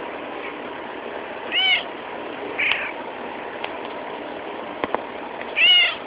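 Domestic cat meowing: two loud, drawn-out meows, each rising then falling in pitch, about four seconds apart, with a shorter, weaker meow between them. A steady background hum runs underneath.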